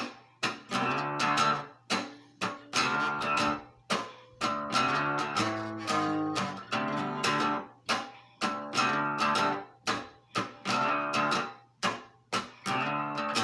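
Acoustic guitar strummed in a steady, driving rhythm, with sharp strokes and chord changes a little past the middle and again near the end.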